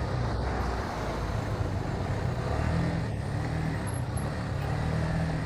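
Motorcycle engine running steadily while riding, with wind and road noise on the camera microphone.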